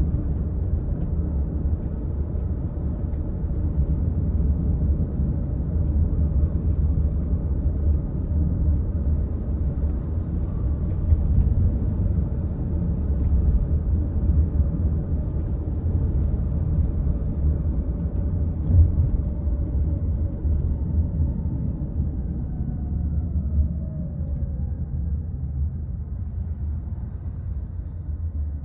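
Car driving on a road: a steady low rumble of engine and tyre noise, with a faint whine that falls in pitch and the noise easing off over the last several seconds.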